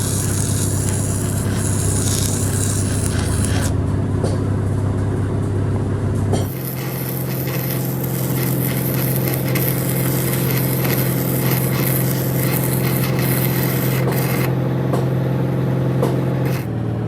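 A machine running steadily with a low drone, its pitch stepping up about six seconds in and back down near the end.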